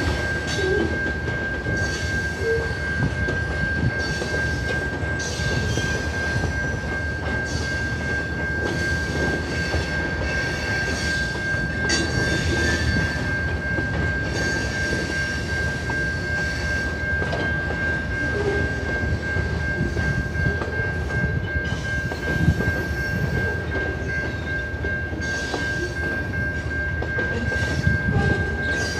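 Freight cars rolling past a grade crossing, their steel wheels clattering on the rails in a steady run of knocks. A steady high tone sounds throughout.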